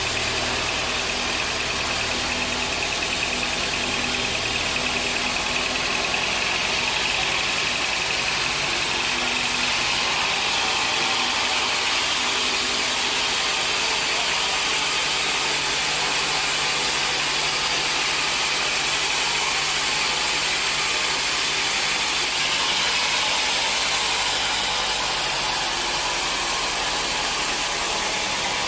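Sawmill machinery running steadily: a motor's low hum with a loud hiss above it. The low pitch shifts a few times.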